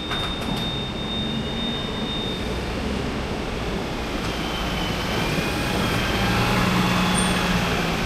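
Heavy truck on the move: a steady rumble and road noise, with a thin high whine at first and faint wavering high squeals in the second half.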